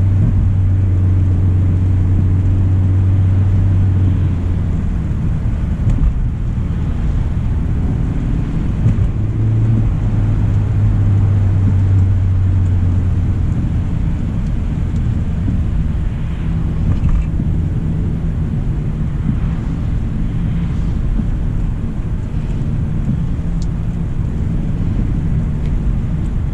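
2025 Hyundai Elantra SEL driving: a steady low road rumble with a low hum that fades about four seconds in and comes back for a few seconds around the middle.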